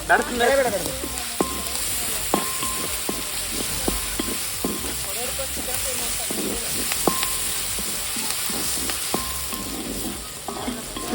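Onions and green chillies sizzling as they fry in oil in a kadai, stirred, with the stirring utensil knocking on the pan several times, some knocks ringing briefly.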